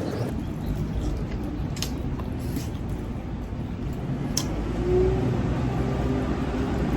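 Mukbang eating sounds: chewing and mouth noises, with a few sharp clicks of utensils or dishes, over a low steady background hum.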